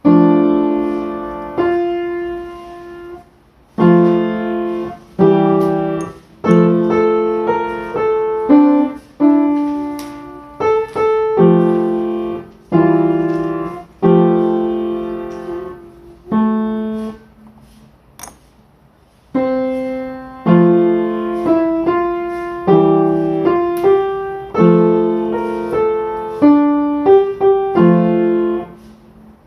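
Background music: solo piano playing slow chords, each struck and left to fade, with a short pause about two-thirds of the way through.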